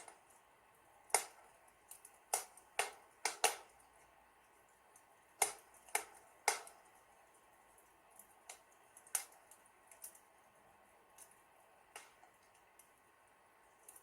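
Fire crackling in a fireplace: irregular sharp pops and snaps over a faint hiss, most of them in the first half.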